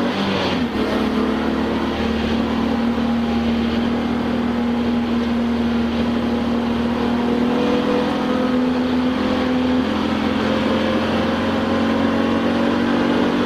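Touring race car's engine heard from inside the cockpit, running hard under load with its pitch climbing slowly. There is a brief dip in level about a second in.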